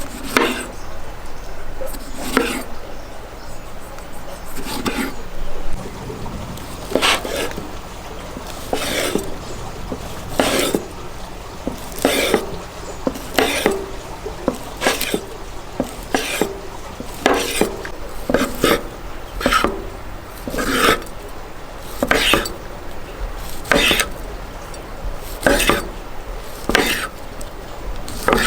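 Repeated scraping and knocking strokes of a kitchen utensil working food in a bowl or on a board, a few seconds apart at first and then about one a second.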